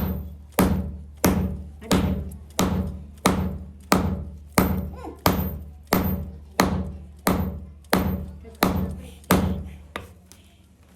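Hammer blows on metal in a steady rhythm, about three every two seconds, each ringing briefly, over a steady low hum. The blows stop near the end.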